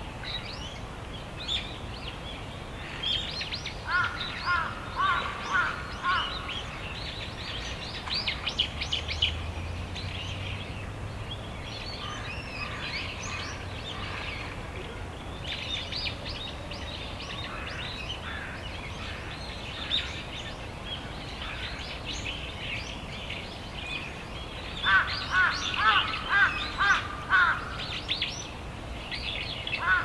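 Wild birds calling: a run of five or six loud harsh calls a few seconds in and another run near the end, over frequent chirping of smaller birds.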